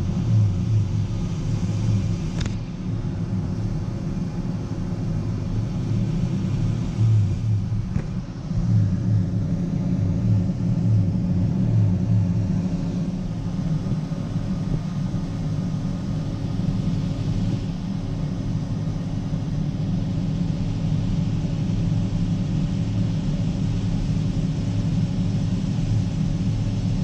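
A farm tractor's diesel engine runs steadily under load with a low drone. The drone pulses over roughly the first twelve seconds, then settles into an even sound.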